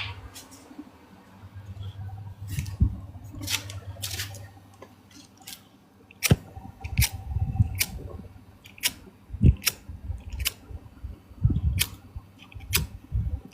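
A series of sharp, irregular clicks and taps with some dull low knocks, roughly one a second and more frequent in the second half, like objects being handled close to the microphone.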